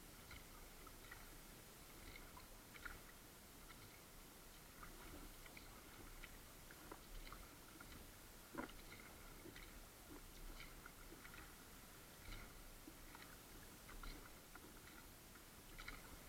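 Very faint kayak paddling: soft, irregular ticks and water sounds from paddle strokes, with one sharper knock a little past the middle.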